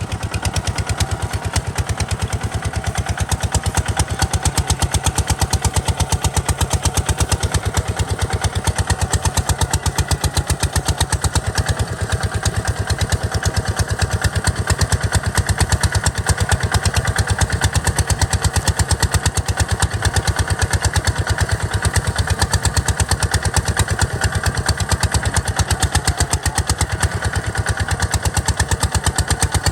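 Kubota RT140 DI single-cylinder diesel engine running steadily, with a rapid, even train of sharp firing beats.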